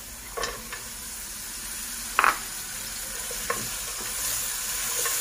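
Meat and onion frying in oil in a stainless steel pot, a steady sizzle, as chickpeas are added and stirred in with a wooden spoon. A few short sharp clacks, the loudest about two seconds in.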